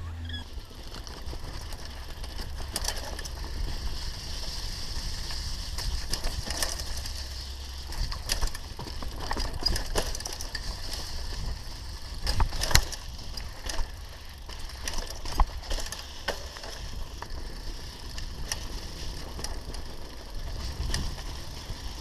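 Mountain bike riding over a dirt trail: the rear hub's freewheel clicking as it coasts, tyres crunching over dirt, and sharp knocks and rattles from the bike over bumps, loudest around the middle.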